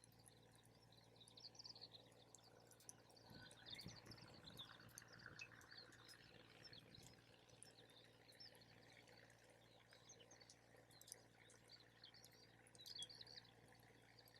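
Faint birds chirping, with small campfire crackles, and a brief low rumble of wind on the microphone about four seconds in.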